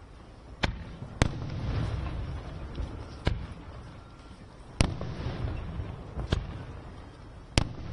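Aerial firework shells bursting: six sharp bangs at uneven intervals, with a low rolling rumble carrying on between them.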